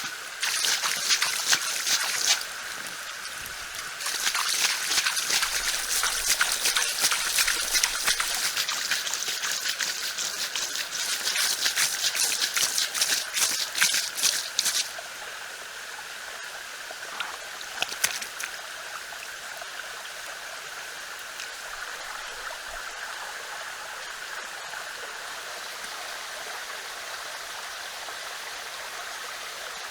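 Steady running water of a stream. For about the first half a louder, dense spattering, crackling noise sits over it, then stops, leaving only the even rush of the water. One sharp click comes a few seconds later.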